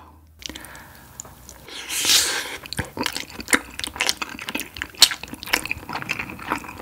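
Close-miked wet chewing of soy-marinated raw crab meat with rice: a slurping bite about two seconds in, then many small, squishy clicks of the mouth.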